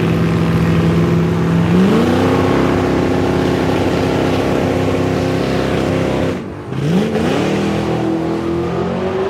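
A truck engine revved hard and held at high, steady revs, as in a burnout. Its pitch steps up about two seconds in, falls away briefly after six seconds, then climbs back up.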